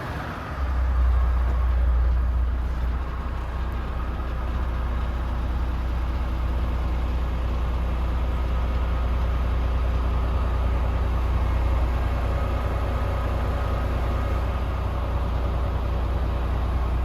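Renault T460 tractor unit's diesel engine idling steadily, a low even drone.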